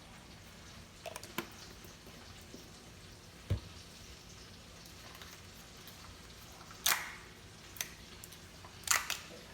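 Kitchen handling sounds while a salad is put together: a few scattered clicks and knocks of utensils and containers, with a low thump about three and a half seconds in and sharper clicks near the end.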